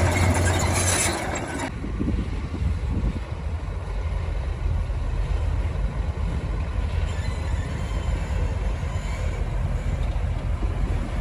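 Heavy diesel earthmoving machinery running steadily with a low engine drone. A loud rushing noise over it stops abruptly about two seconds in.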